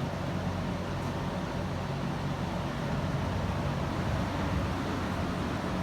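Kymco AK550 maxi-scooter's parallel-twin engine idling steadily, a low even hum.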